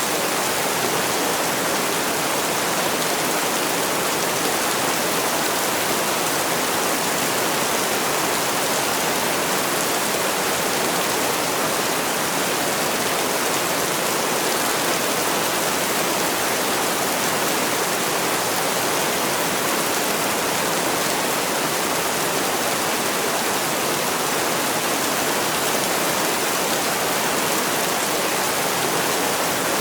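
Heavy rain falling in a steady, even hiss, without changes, separate drops or thunder.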